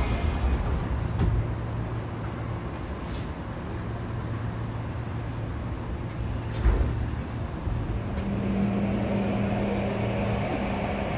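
Saitama Railway 2000 series electric train heard from inside the car, running at speed with a steady rumble and hum. There is a single sharp knock about two-thirds of the way through. Near the end a steady motor tone comes in, with faint rising tones.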